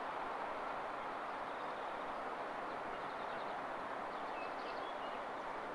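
Steady outdoor background noise with a departing electric regional train faint in the distance, and a few faint bird chirps in the middle.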